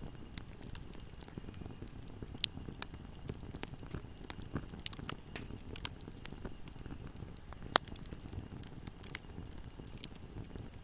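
Wood fire crackling: a steady run of small, sharp pops over the low rumble of the flames, with two louder pops, one about two and a half seconds in and one near eight seconds.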